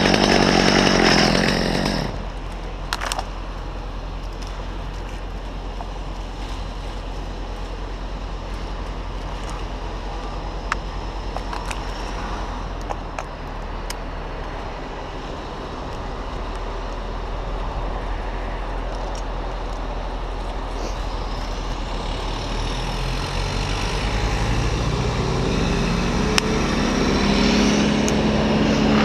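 A chainsaw cutting stops abruptly about two seconds in, leaving a steady low engine hum with a few sharp clicks. Near the end an engine speeds up, its pitch rising and growing louder.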